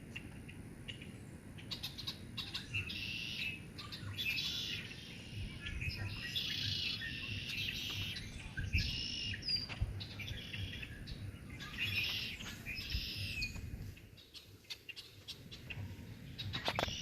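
Songbirds singing: a series of short, repeated chirping phrases, with a low rumble underneath.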